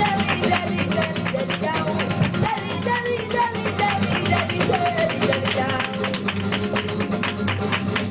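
Live flamenco music: flamenco guitar playing with a singer's wavering melodic line, over a dense, fast run of sharp percussive strikes.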